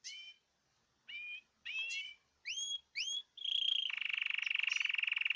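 Cage birds singing: a string of short whistled notes, several of them rising in pitch, then a long rapid trill that begins about three and a half seconds in and carries on to the end.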